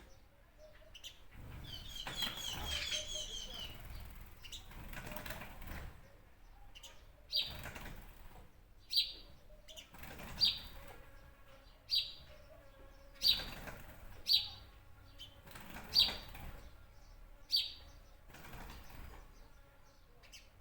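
Birds calling: a quick run of high chirps about two seconds in, then one bird repeating a short, sharp, slightly falling call roughly every second and a half.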